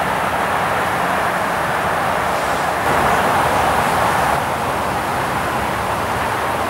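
Steady rolling noise of trains on the line, an electric locomotive hauling passenger coaches and then a regional TER train approaching. The noise swells for a second or so around the middle.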